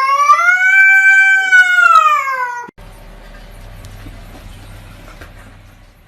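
A cat gives one long, loud meow that rises in pitch, holds and then falls, ending abruptly after almost three seconds. Faint background noise with a low hum follows.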